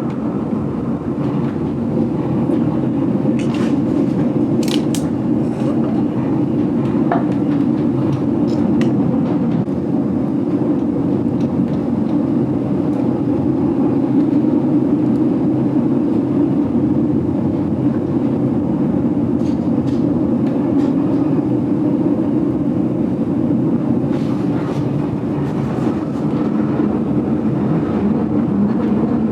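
GoldenPass Belle Époque vintage passenger train running steadily on the rails, heard from inside the carriage: a continuous rumble with scattered sharp clicks and squeaks, a few in the first seconds and a cluster in the later part.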